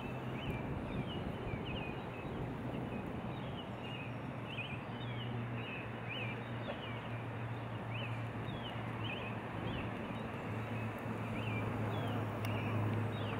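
Small birds chirping repeatedly in short quick notes over a steady wash of flowing water, with a low steady hum underneath.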